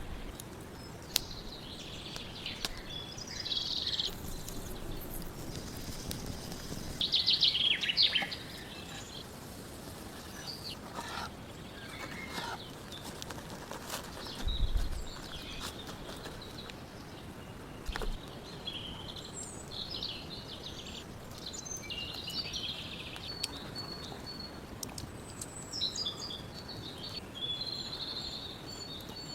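Songbirds chirping and singing on and off, a loud cluster of calls about seven seconds in, with a few faint clicks and a brief low thump about fifteen seconds in.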